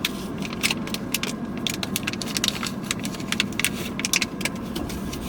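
Irregular crackling and clicking of plastic packaging being handled, over a steady low hum.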